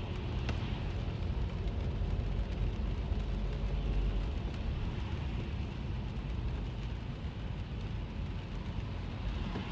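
Inside a car driving in the rain: a steady low rumble of road and engine, with rain falling on the car. Two faint clicks come in the first second.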